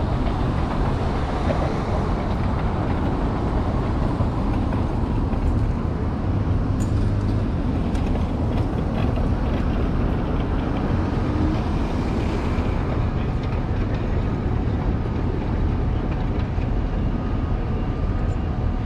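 Steady low rumble of wind on the microphone mixed with road traffic while riding an electric motorbike through city streets.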